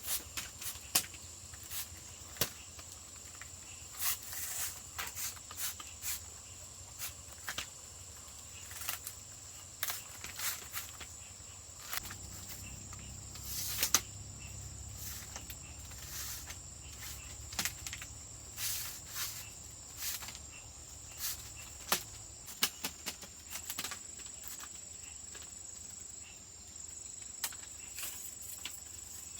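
Insects making a steady high-pitched drone, with frequent irregular sharp clicks and knocks scattered over it, the loudest about a second in and near the middle.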